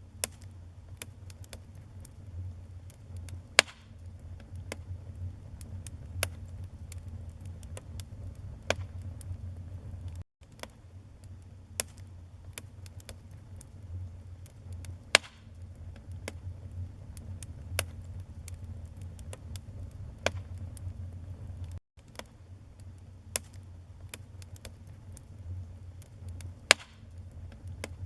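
Wood fire burning in a fireplace: a low steady rumble of flames with irregular crackles and a few sharp pops from the burning logs. The sound cuts out for an instant twice.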